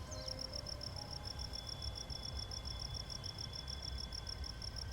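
Crickets chirping in a fast, even pulse of about nine chirps a second, over a faint low rumble.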